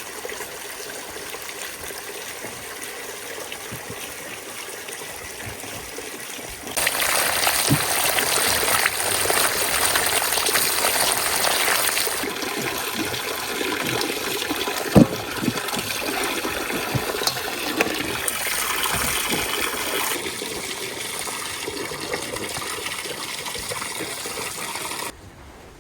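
Water running and splashing, much louder from about seven seconds in, with a few light knocks, and stopping abruptly just before the end.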